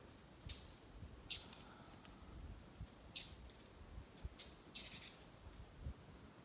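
Faint bird calls in woodland: about five short, high chirps scattered a second or so apart.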